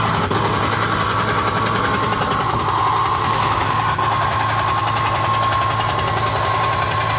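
Recorded helicopter noise played loud through a speaker: a steady, rapid rotor chop with a constant whine over it.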